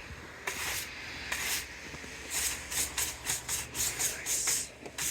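Hissing rub strokes, brisk and rhythmic at about three or four a second through the second half, over a faint low hum.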